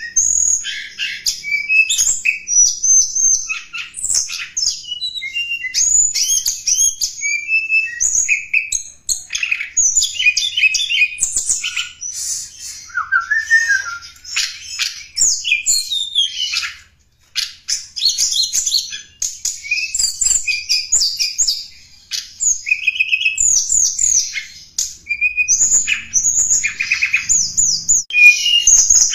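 Tledekan gunung songbird singing a rapid stream of high chirps and short whistled notes, with one brief pause about two-thirds of the way through. This is a lure call used to attract wild birds of the same kind.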